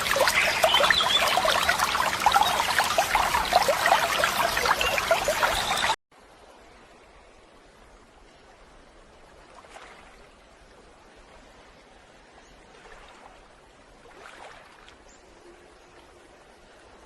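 Loud running water, splashing and trickling, that cuts off abruptly about six seconds in, leaving a quiet background with a few faint brief sounds.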